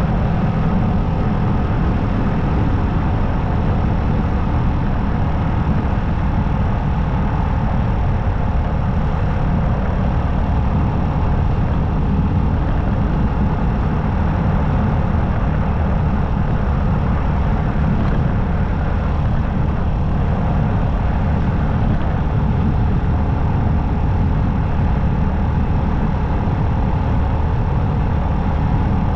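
Motorcycle running at a steady cruising speed, its engine note mixed with wind and road noise, level and unchanging throughout.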